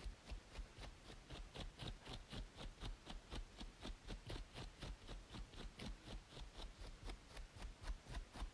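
Rapid, even scratching on a braided scalp, about five short strokes a second, over a faint steady hiss of white noise.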